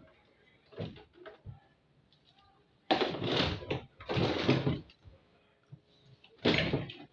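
Washing machine parts being handled during repair: a few short knocks, then three longer scraping, rasping noises.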